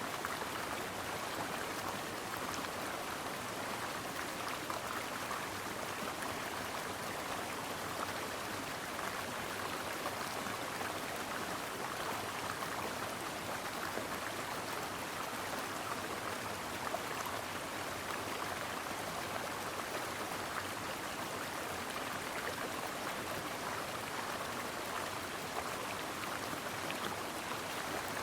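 A stream babbling steadily over rocks, a constant rush of running water.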